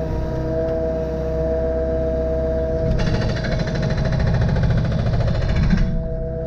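Firewood-splitting machine running with a steady mechanical hum, working harder with a rapid rattling for about three seconds in the middle before settling back.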